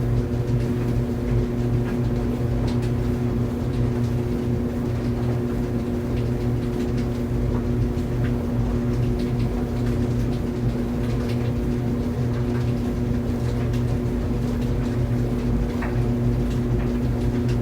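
Clothes dryer running with a steady, even hum and drone, with faint scattered light ticks over it.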